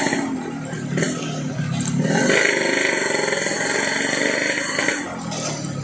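Yamaha RX King two-stroke single-cylinder motorcycle engine revving through a gutted 'bobokan' exhaust while riding, its pitch rising and falling with the throttle.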